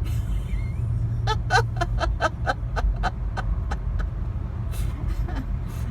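Steady road and engine rumble heard inside a moving car's cabin. From about a second in, there is a quick run of about eight short voice-like sounds, about four a second.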